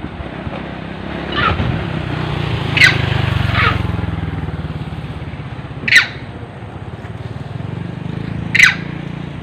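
A small engine running steadily, with five short, high-pitched calls that fall in pitch, the loudest about three, six and eight and a half seconds in.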